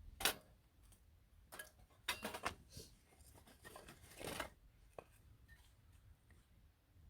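Several short scraping and rustling sounds of things being handled, with a sharp click about five seconds in.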